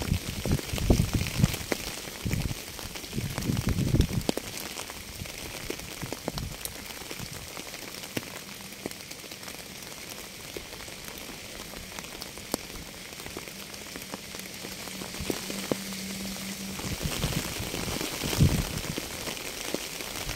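Steady rain hiss with scattered individual drop ticks. Uneven low rumbles come through in the first few seconds and again near the end, with a faint steady low hum in between.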